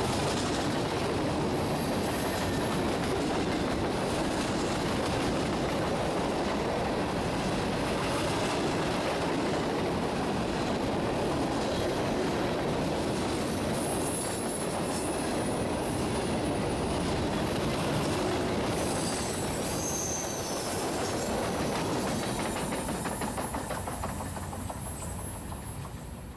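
Freight train gondola cars rolling past close by: a steady rumble and clatter of steel wheels on the rails, with faint high wheel squeals about halfway through and again a few seconds later. The sound fades out near the end.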